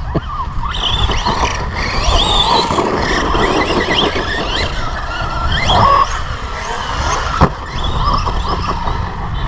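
Electric motor of a brushless RC monster truck whining and gliding up and down in pitch as the throttle is worked, over a low rumble. A sharp knock comes about seven and a half seconds in.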